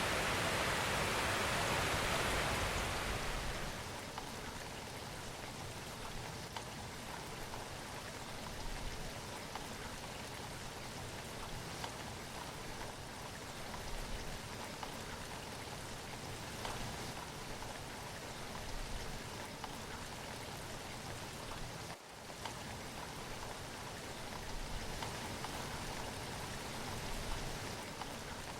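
Steady rushing water noise, loud for the first three seconds or so, then easing to a softer, even wash with a brief dip about twenty-two seconds in.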